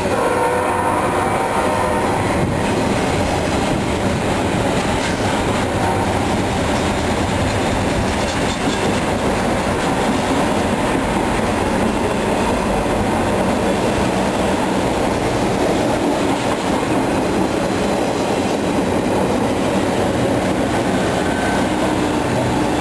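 Double-stack intermodal container cars of a CSX freight train rolling past, a steady rumble of steel wheels running on the rails.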